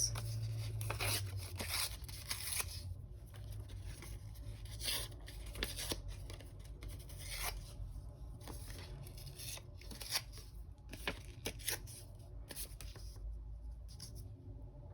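Paper being torn by hand in a series of short, irregular rips, with light rustling as it is handled.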